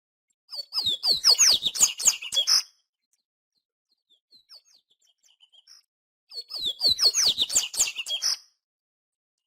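Papa-capim seedeater singing: two song phrases of about two seconds each, made of quick, falling whistled notes, with a few faint chirps in the pause between them.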